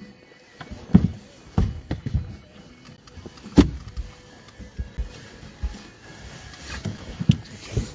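Irregular knocks and thumps in a fishing boat as gear and fish are handled: a few sharp strikes, about six in all, loudest about three and a half seconds in, over a faint steady hum.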